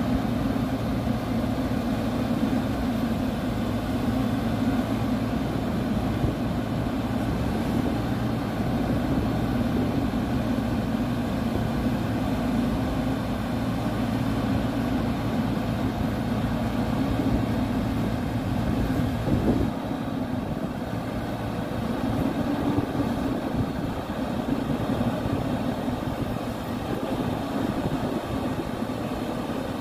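Land Rover Discovery 4's engine running steadily under load while the SUV works to free itself from soft dune sand. About two-thirds of the way through there is a brief change, after which the deepest rumble is weaker.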